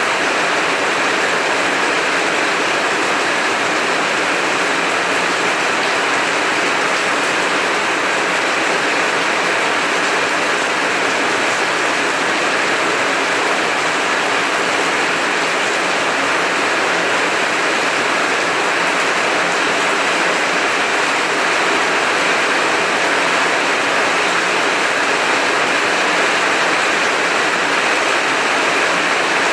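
Heavy rain pouring steadily: a dense, even hiss that does not change, with no thunder.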